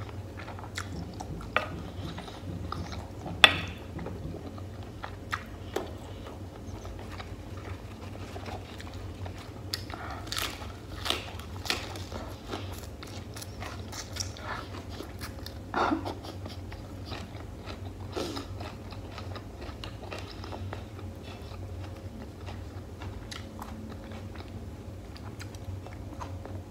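Close-miked eating sounds: wet chewing and biting of beef-and-tomato stew and crisp lettuce leaves. Scattered short sharp clicks and crackles run through it, the loudest about three and a half seconds in.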